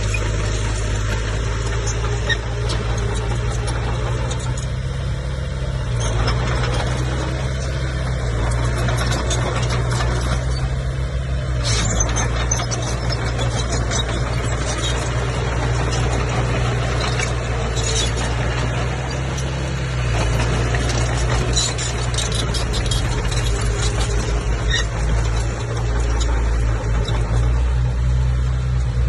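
Komatsu crawler bulldozer's diesel engine running steadily under load, its pitch and level shifting a few times, with scattered short squeaks and clicks over it.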